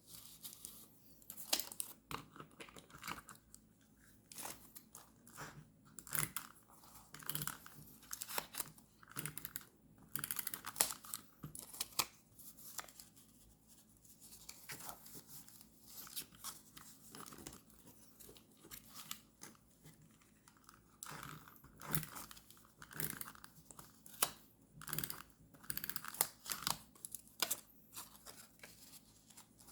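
Paper and stickers being handled, torn and cut during journal decorating: an irregular run of crisp rustles and sharp little clicks.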